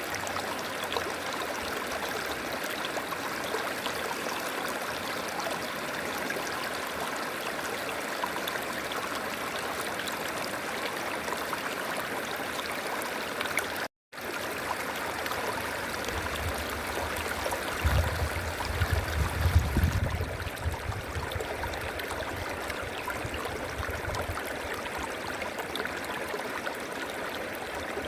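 River water rushing steadily. About halfway through the sound drops out for a split second, and a few seconds later a low rumble swells for several seconds before fading.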